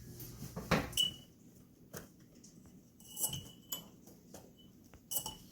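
Scattered light taps and clinks of small plastic or glass paint cups and painting tools being handled, a few of them ringing briefly.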